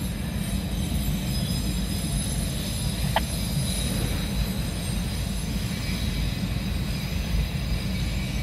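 Loaded autorack freight cars rolling slowly on the rails: a steady low rumble of wheels on track, with one short high squeak about three seconds in.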